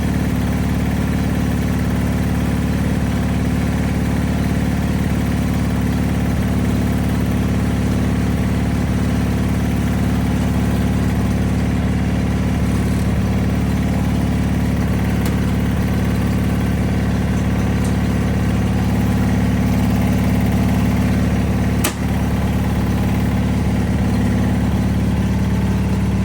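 Cub Cadet 782 garden tractor's 16 hp Onan twin-cylinder engine idling steadily as it warms up after a cold start in sub-zero weather. There is one brief dip in level near the end.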